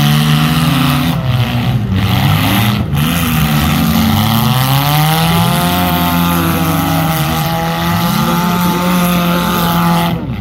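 Several compact demolition-derby car engines running and revving at once, their pitches rising and falling as the cars manoeuvre. About four seconds in, one engine climbs in a long rev and then holds high until near the end.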